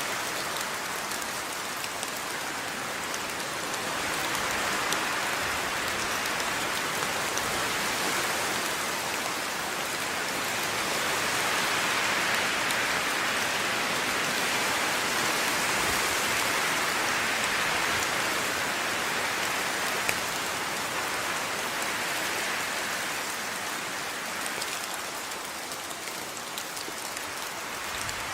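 Steady rain falling and pattering on surfaces, a dense hiss of drops with fine scattered ticks, swelling slightly in intensity midway and easing a little near the end.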